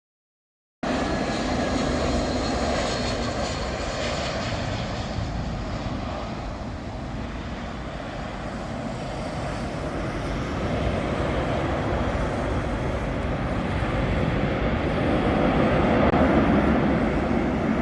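Airbus A321-231 jet airliner's IAE V2500 engines on a landing approach: a steady jet roar that cuts in about a second in and grows louder toward the end as the plane nears.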